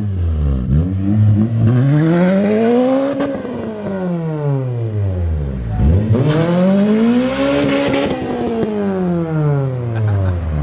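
Honda K20 inline-four in a race-prepped Civic EP3, running through a race exhaust, with its revs climbing and falling twice over a few seconds each time.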